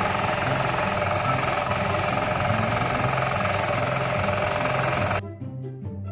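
Small engine of a mini rice harvester running steadily under load. About five seconds in, the sound cuts off abruptly and gives way to quiet background music.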